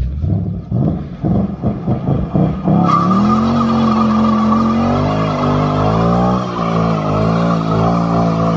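Car engine running hard: uneven pulsing for the first three seconds, then a steady high-revving note whose pitch wavers slightly. The car is the 2011 Mitsubishi Lancer, fitted with a replacement engine and a new clutch.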